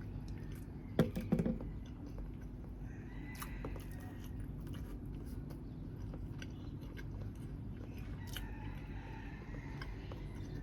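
A person chewing and biting grilled chicken with small wet clicks throughout, and a short burst of louder knocks about a second in.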